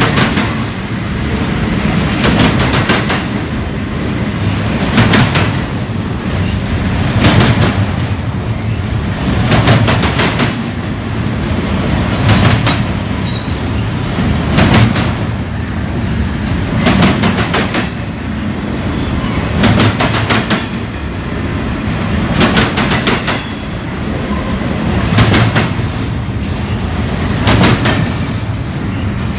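Double-stack container train rolling past on well cars: a steady low rumble of wheels on rail, with a cluster of clacks about every two and a half seconds as each set of wheels passes.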